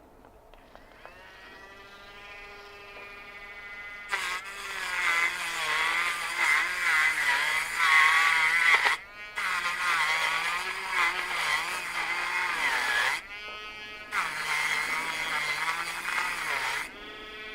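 Small rotary tool spinning up, then grinding out a burned-out rivet on a heater element's terminal connection. Its high whine wavers in pitch as the bit bites under load, and it stops briefly twice.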